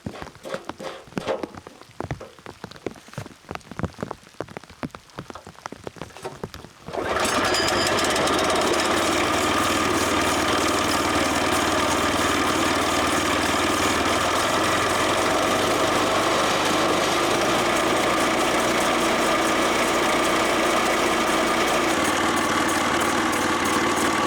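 Rain pattering for several seconds. Then, about seven seconds in, the loud, steady running of the engine of a Woodland Mills portable bandsaw mill cuts in suddenly and carries on.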